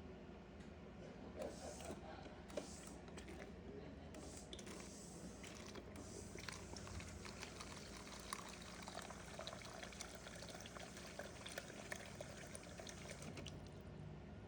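Water running from a Whirlpool refrigerator's door dispenser, a faint irregular pouring and splashing over the fridge's low steady hum.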